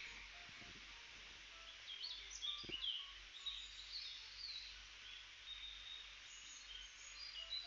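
Faint bird chirps, many short high notes scattered throughout, over a steady background hiss.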